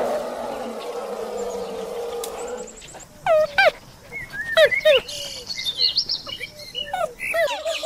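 A rough, low animal call trails off over the first few seconds. Then, about three seconds in, a series of short chirping bird calls begins, each one sweeping up and down in pitch.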